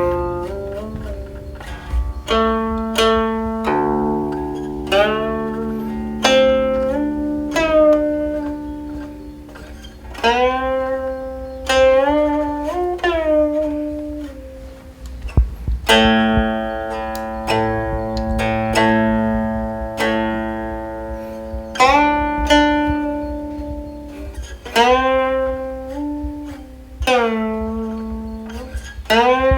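Guqin, the seven-string Chinese zither, played solo: plucked notes ring on and slide up and down in pitch after the pluck, between sustained chords and runs of quicker notes.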